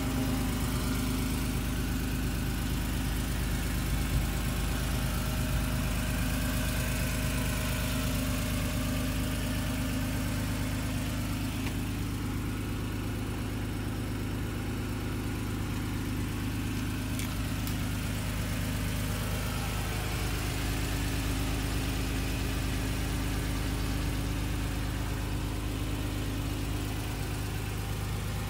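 Honda NSX's 3.0-litre V6 idling steadily.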